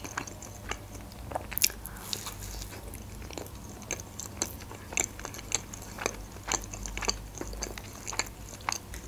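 A person chewing a mouthful of fluffy pancake close to the microphone: soft, irregular clicking and wet mouth sounds of chewing.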